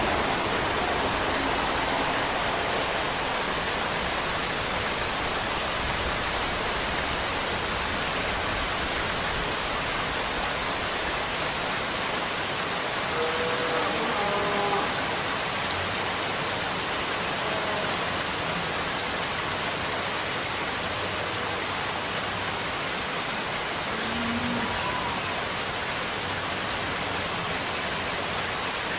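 Steady, continuous rainfall: a dense, even hiss of rain falling on surfaces. A few faint, brief pitched sounds come through about halfway through and again near the end.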